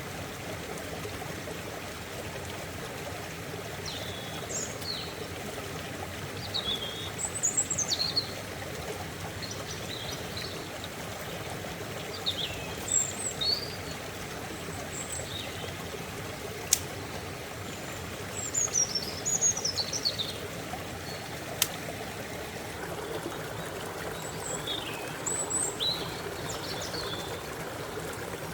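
Stream running steadily, with small birds chirping in short bursts of song every few seconds. Two sharp clicks stand out, one past the middle and another a few seconds later.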